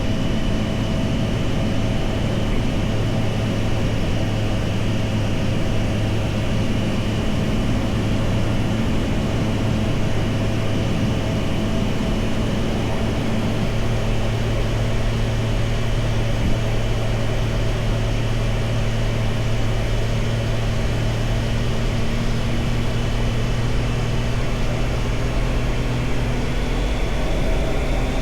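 Triumph Tiger Sport 660's three-cylinder engine running at a steady cruise on the move, its pitch holding nearly constant, with wind noise rushing over the onboard camera.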